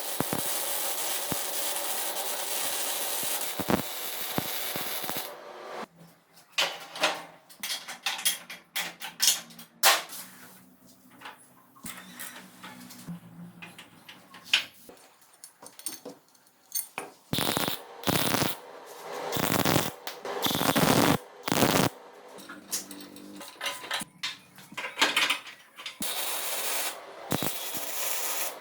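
Workshop tool noise: a steady hiss-like rush for about five seconds, then a run of scattered knocks and clanks with several louder rushes, and a steady rush again near the end.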